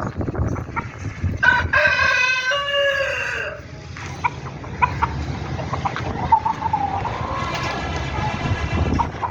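Leghorn rooster crowing once, loud, about a second and a half in, the crow dropping in pitch at its end; a second, softer drawn-out call follows about two seconds later, over a steady low rumble.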